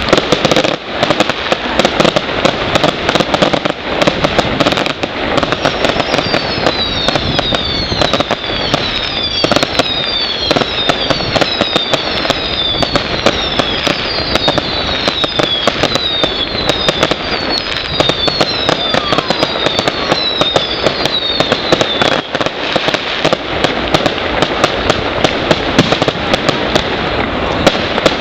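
Fireworks display: a dense barrage of bangs and crackling. From about six seconds in until about twenty-two seconds, a run of many short falling whistles sounds over it, following each other roughly twice a second.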